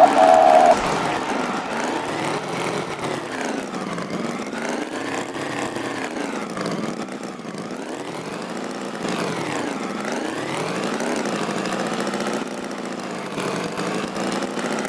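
Tractor engine running, its pitch rising and falling in slow sweeps as it revs up and down.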